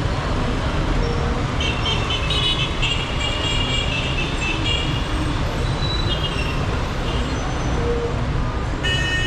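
Dense city street traffic: a steady rumble of engines and tyres, with vehicle horns honking several times and a strong, held horn blast starting near the end.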